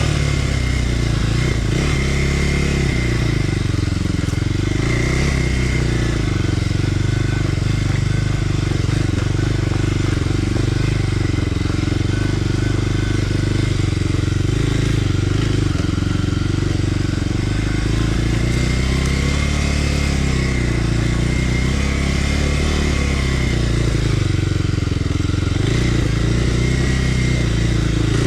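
Kawasaki KLX300R dirt bike's single-cylinder four-stroke engine running steadily, its pitch rising and falling gently a few times as the throttle is opened and eased.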